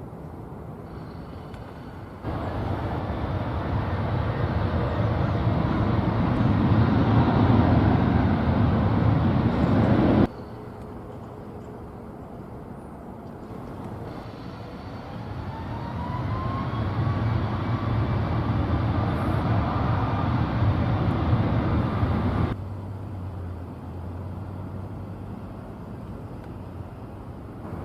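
Jet airliner engine noise from planes passing close by, heard twice. Each time the noise swells over several seconds, the second with a whine gliding upward, and both cut off abruptly at clip edits.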